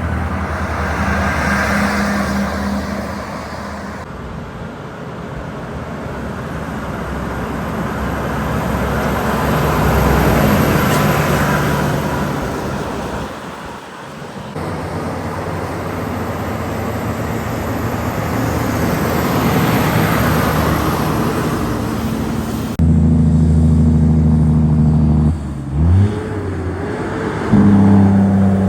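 Heavy diesel trucks passing on a road one after another, each swelling and fading as it goes by, across several abrupt cuts. Near the end a truck's diesel engine runs close and loud, with a brief rise and fall in pitch.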